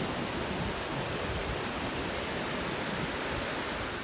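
Ocean surf breaking on a beach: a steady, even rush of water noise.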